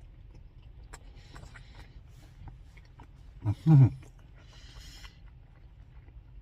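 A single short vocal sound, rising then falling in pitch, about three and a half seconds in, with soft rustling before and after it.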